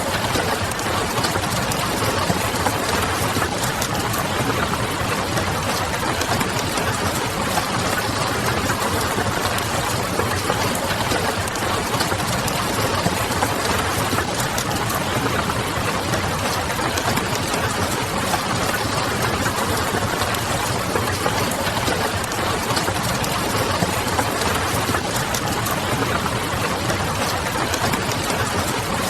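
Steady rain pattering, with a wood fire crackling in small scattered pops and a low steady hum underneath.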